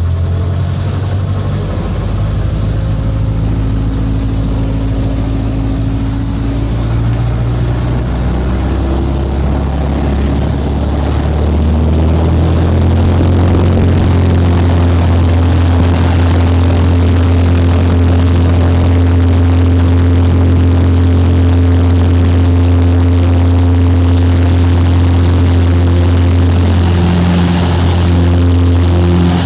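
Two-seat light aircraft's propeller engine running steadily. About 12 seconds in it speeds up, getting louder and higher in pitch, then holds at the higher power.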